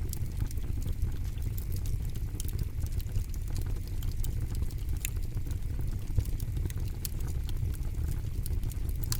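Campfire crackling: a continuous low rumble of the burning fire with irregular sharp crackles and snaps of burning wood, a few louder pops among them.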